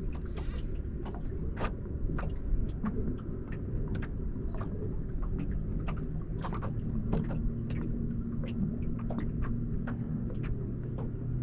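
Wind buffeting the microphone in a small fishing boat as a low, uneven rumble, with scattered sharp knocks and taps throughout and a brief hiss at the start. About halfway in, a steady low hum joins in.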